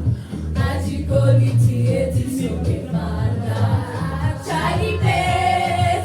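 Music with several voices singing together over a steady bass line.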